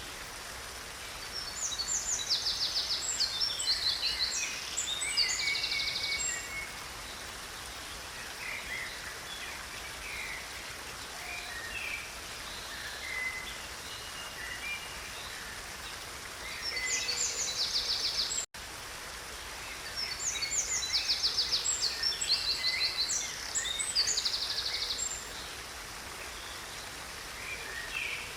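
Stream water flowing steadily under songbirds singing: loud phrases of rapid trilled notes come about a second in, again a little past the middle and again soon after, with scattered short chirps in between. The whole sound cuts out for an instant about two-thirds of the way through.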